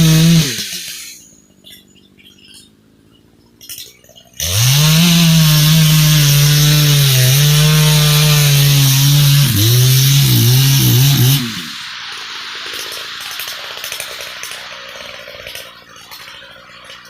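Muffler-modified Echo CS-590 two-stroke chainsaw, being broken in, dropping from full throttle to idle, then revving up about four seconds in and running at high revs for about seven seconds, its pitch sagging under load as it cuts through a log. It falls back to a lower idle for the last few seconds.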